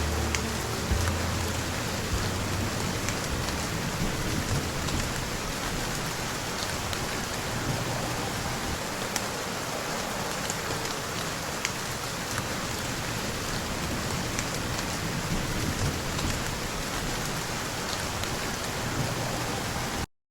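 Steady rain ambience with scattered sharper drop sounds. The last low notes of music die away in the first second or so, and the rain cuts off abruptly near the end.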